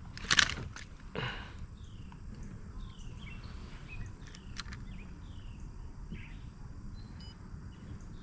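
A bird repeating a short call that slides down in pitch, every second or so, over a low steady outdoor rumble. A sharp click sounds about half a second in, with a fainter knock soon after.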